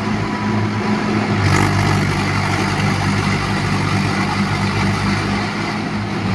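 Mahindra tractor's diesel engine running steadily, with a short burst of noise about a second and a half in.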